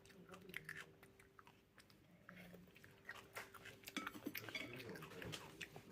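Faint, close-miked ASMR clicks and crackles, chewing-like and scattered irregularly, growing busier in the second half.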